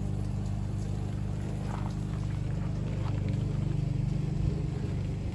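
A steady, low motor hum, like an engine running at a constant speed, with a few faint ticks.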